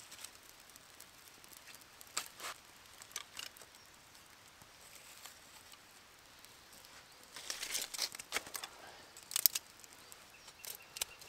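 Small kindling fire of birch bark and bracken crackling: scattered sharp snaps, sparse at first, then a quick cluster of them about seven to nine and a half seconds in.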